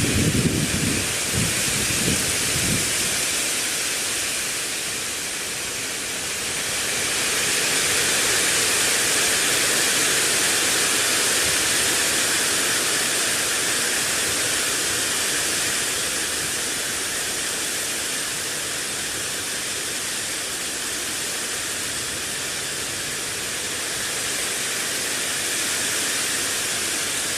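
Wind blowing with a steady rushing hiss that swells about a third of the way in and eases off later, with a few low rumbles in the first few seconds.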